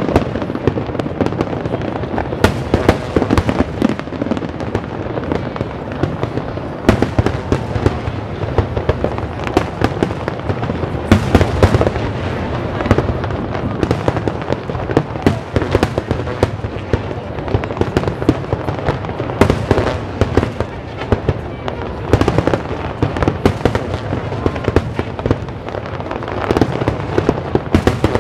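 Aerial fireworks display: a loud, dense barrage of shell bursts, sharp bangs and crackling, many overlapping, with no pause.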